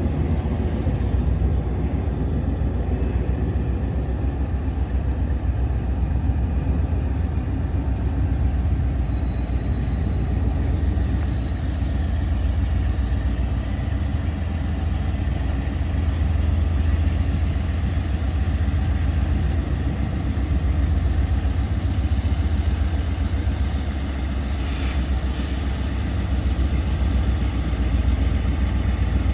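Train passing with a steady low rumble, and two brief high squeaks about three-quarters of the way through.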